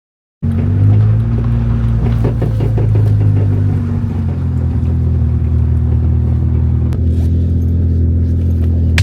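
Car engine running at a steady, low speed, starting abruptly about half a second in.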